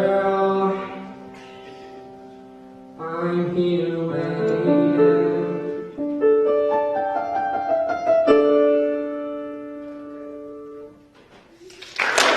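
Piano playing slow, held chords that ring out and fade away, like the closing bars of a song. Applause breaks out at the very end.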